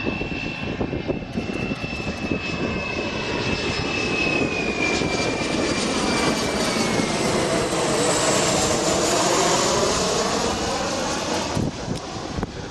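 Boeing 737-300 jet airliner on short final passing low overhead, its CFM56 turbofans running with a high whine that slides down in pitch. The broad jet noise then swells to its loudest a few seconds before the end and drops away sharply.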